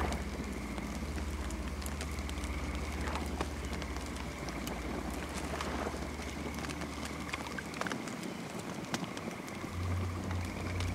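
Campfire crackling, with frequent sharp pops and snaps over a steady high chirring of crickets. A low rumble sits under it, fading out about eight seconds in and coming back near the end.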